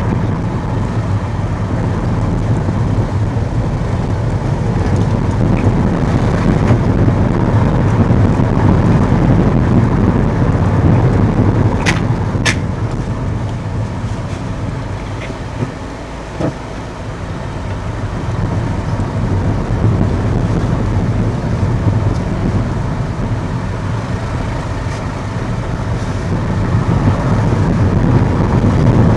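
A car driving along: steady engine and road noise with slow swells in level, with two sharp clicks in quick succession about twelve seconds in.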